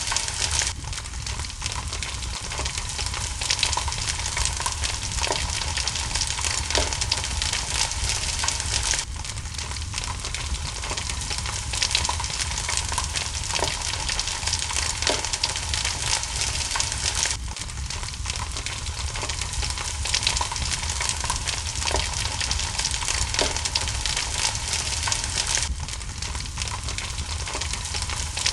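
Steady rain hiss mixed with a crackling fireplace, with a low rumble underneath and small pops every second or two. The same stretch of about eight seconds repeats, as in a looped ambience track.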